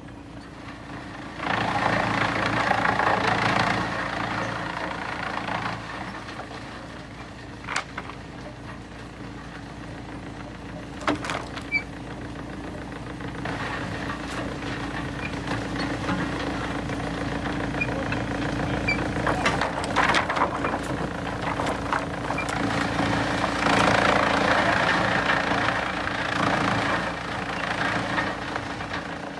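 Heavy machinery's engine running steadily. Twice it gets louder for a few seconds with a rough, noisy sound, and there are a few sharp knocks in between.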